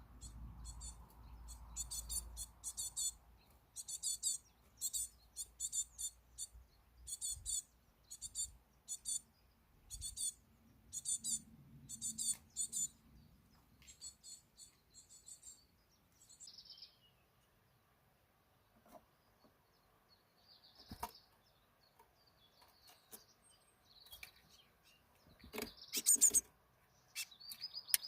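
Small birds chirping in quick, high-pitched bursts, one burst every half second or so, then thinning out past the halfway mark to scattered calls and a few sharp clicks.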